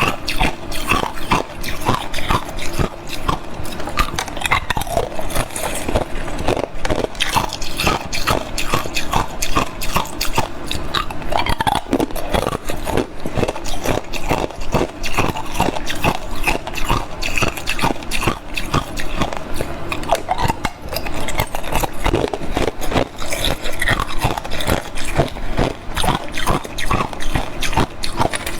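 Hard clear ice cubes frozen with basil seeds being bitten and chewed, a dense, irregular run of sharp cracks and crunches.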